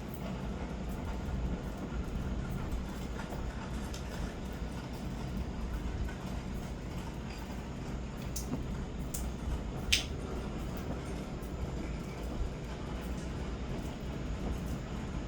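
Thunder rumbling low and steady through a tropical storm, with a few faint clicks and one sharper crack about ten seconds in.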